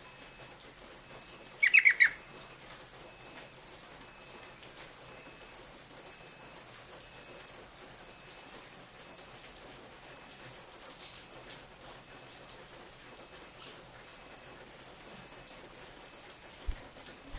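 A yellow-vented bulbul (trucuk) gives one quick burst of a few bubbly notes about two seconds in. Faint scattered ticks follow, typical of the bird moving in its cage.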